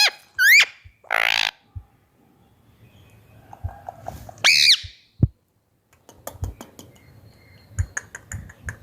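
Indian ringneck parrot calling: a few short squawks with quick rising and falling pitch in the first second, one of them a harsh screech. A single loud call comes about halfway through, followed by a run of faint clicks.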